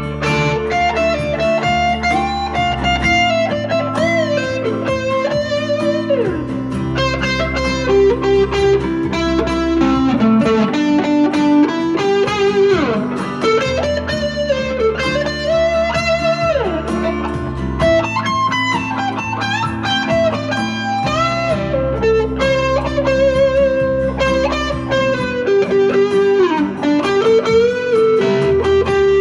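Squier Jaguar electric guitar's single-coil pickups through a JHS NotaKlon overdrive pedal into a Vox AC10 amp, playing improvised lead lines with string bends over a backing track in D minor.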